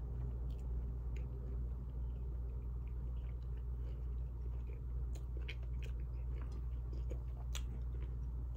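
A person chewing a mouthful of beef and broccoli, with a few faint sharp clicks scattered through, over a steady low hum.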